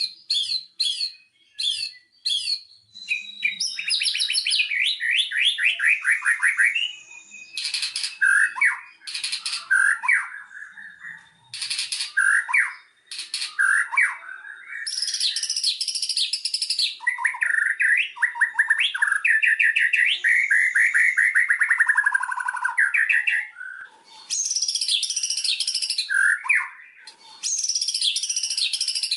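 White-rumped shama (murai batu) singing a varied song. It opens with a string of short sharp notes and goes on to long fast trills that fall in pitch, high rapid chatters, and short whistled phrases.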